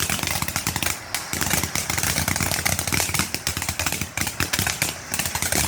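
Tyrannosaurus Rex novelty ground firework crackling: a dense, rapid, continuous stream of sharp crackles.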